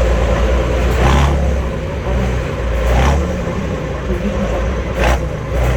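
Heavy trial truck's engine running with a steady low rumble, with three short rushing noise bursts about two seconds apart.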